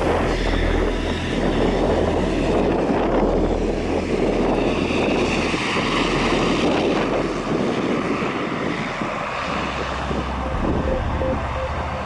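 Passenger jet's engines running close by as a dense, steady rush that thins out about eight seconds in, with wind buffeting the microphone.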